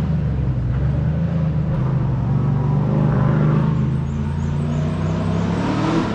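Race car engine running hard on a hillclimb course, its note sinking slowly, then rising again near the end.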